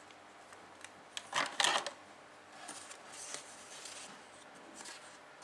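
Pen scratching on paper: a quick cluster of short strokes about a second and a half in, then a few fainter strokes.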